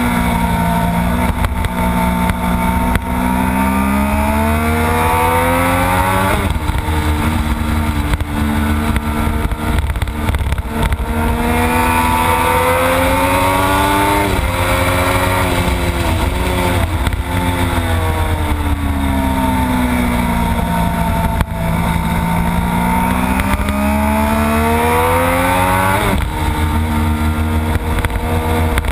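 Triumph Daytona 675's inline-three engine heard from on board at race pace: revving up through the gears with a sharp upshift about six seconds in, a run of quick downshifts midway, then pulling again to another upshift near the end. Heavy wind rumble on the microphone underneath.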